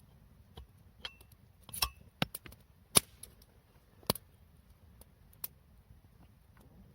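A series of irregular sharp clicks and knocks, about half a dozen, the loudest about three seconds in.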